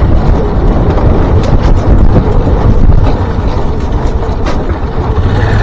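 Riding on a motorbike: wind rushing over the microphone over the running engine, a loud, steady rush.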